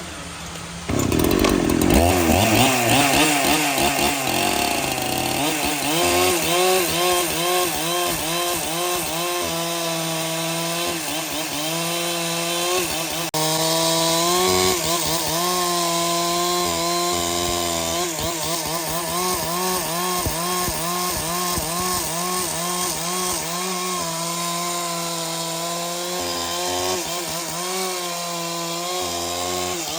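Power saw cutting through a large timber log, its motor pitch wavering up and down as it works under load. It starts about a second in and runs on steadily.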